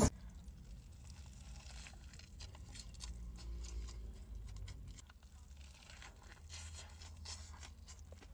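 Faint scattered small crunches and crinkles, typical of eating and handling food packaging, over a low hum.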